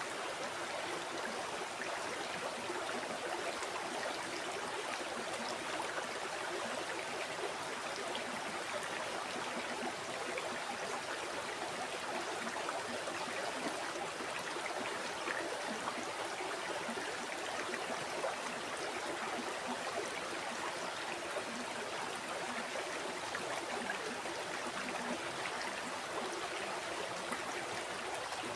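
River water flowing steadily over rocks, an even, unbroken rush with fine trickling and gurgling.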